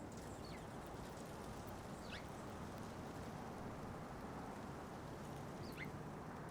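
Small songbird giving three short chirps, each sliding quickly downward in pitch, spaced a couple of seconds apart, over a steady outdoor background hiss.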